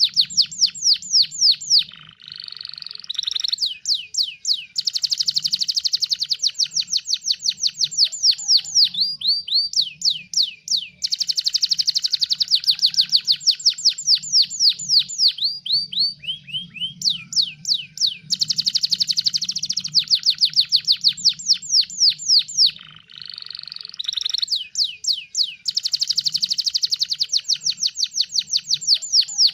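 Domestic canary in full song: long rapid trills of quick repeated notes that each sweep downward, broken by short buzzy phrases about two seconds in and again near the end.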